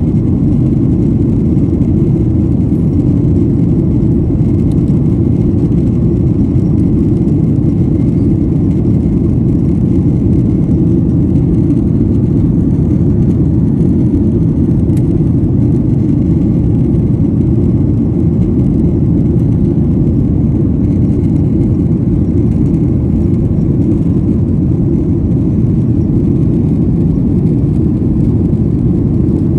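Steady low roar of a jet airliner heard inside the passenger cabin: engine and airflow noise, unchanging, with a faint high tone above it.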